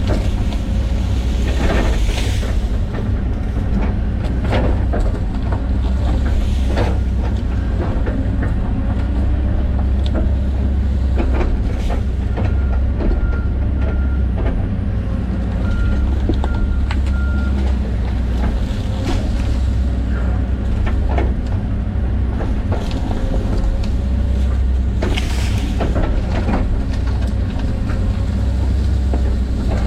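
John Deere 130G excavator's diesel engine running steadily under load, with scattered knocks and cracks as it works through trees and brush. A series of short beeps sounds around the middle.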